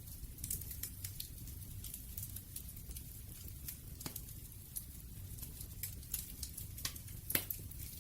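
Wood fire crackling: a low steady rumble of flames with scattered sharp pops and snaps, a louder pop about four seconds in and another near the end.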